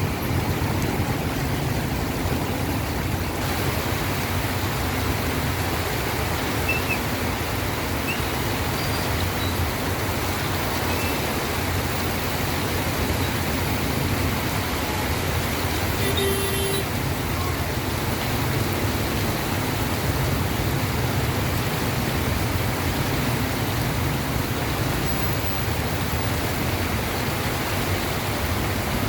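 Steady rushing noise of a city street in monsoon rain, rain and traffic on wet roads blending into one even roar. A short beep with several overtones sounds once, about sixteen seconds in.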